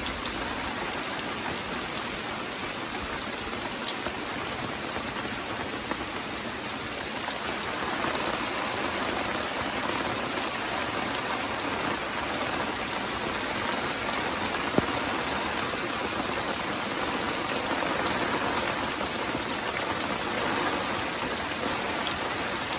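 Steady rain, an even hiss of many drops, growing a little heavier about a third of the way through. A single sharp tick of a drop sounds a little past the middle.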